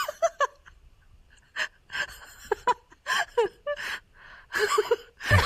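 A person's voice in short, quiet snatches with breaths and gasps, and no clear words.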